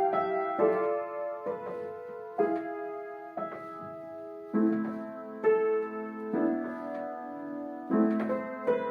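Piano playing a slow piece: chords struck about once a second, each left ringing as it fades.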